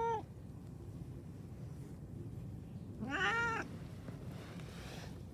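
A cat meowing: the end of one meow right at the start, then a second, shorter meow about three seconds in that rises and falls in pitch.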